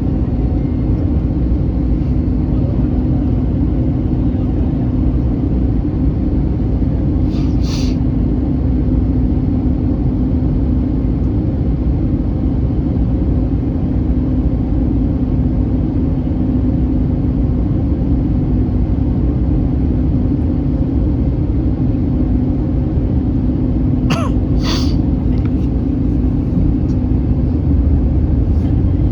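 Steady in-flight cabin noise of an Airbus A321neoLR: a constant rush of airflow and engine noise with a steady low hum. Two brief sharp sounds break through, about eight seconds in and again near the end.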